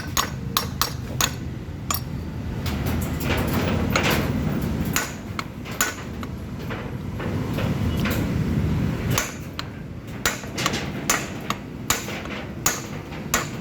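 Metal hammer blows, repeated and irregular at two to four a second, driving a new bearing into a belt tensioner pulley. A low steady rumble runs under the blows twice for a few seconds.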